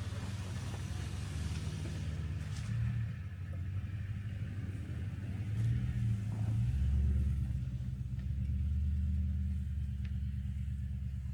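Truck engine running with a steady low rumble; about six and a half seconds in its tone drops lower and grows a little louder.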